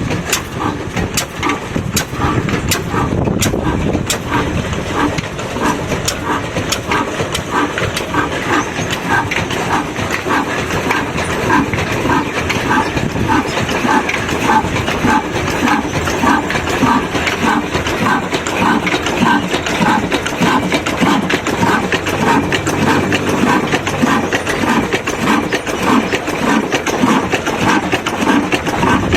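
Engine running with a steady, evenly repeating chug of about two to three beats a second, with a few sharp clicks in the first few seconds.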